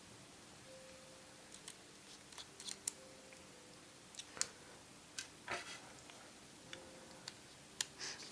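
Faint, scattered small clicks and ticks of a precision screwdriver working on an iPhone 4's tiny case screws, with the phone handled on a work surface.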